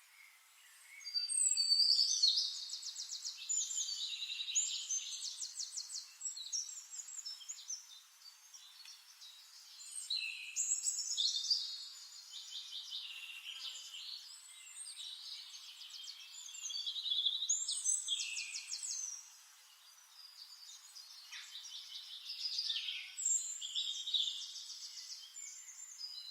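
Songbirds singing: complex phrases of fast, high trills and quick chirps, in four bouts of a few seconds each with short lulls between them.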